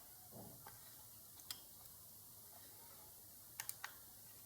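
Near silence with a few faint, sharp clicks: one about a second and a half in, then three quick ones close together near the end.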